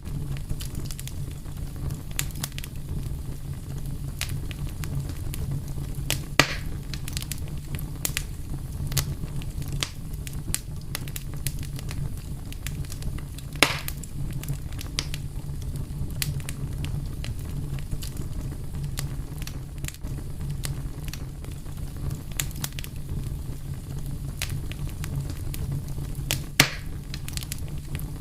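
Fire crackling: a steady low rumble of burning with a constant patter of small snaps and pops, and three louder pops spread through.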